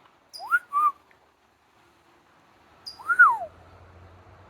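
A small bird chirping briefly and a man whistling back to it: two whistled notes that rise and then fall, each led by a short high chirp.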